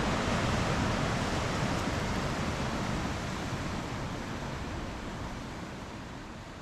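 Rushing river water, a steady, even rush swollen by a dam release running high, slowly fading toward the end.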